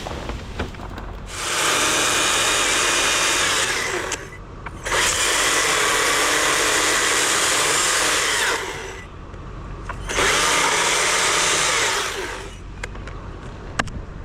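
Chainsaw run up to full throttle three times, each run lasting about three to four seconds, with the engine dropping back to a low idle in between: repeated cuts into the pecan wood.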